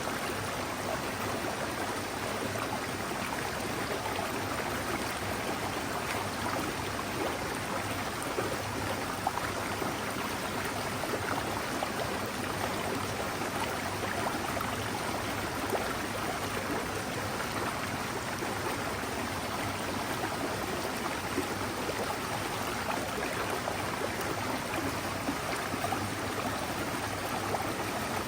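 Forest mountain stream flowing, a steady, unbroken rush and babble of water.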